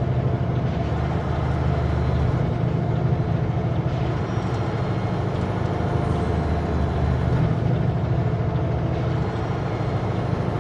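Kenworth W900L semi truck's diesel engine running steadily under way, with road noise.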